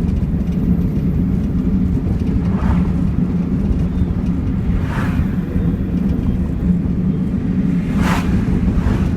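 Toyota Mark II's 1G straight-six engine running with a steady low drone and no rise in revs. Three brief hissy sounds cut in over it.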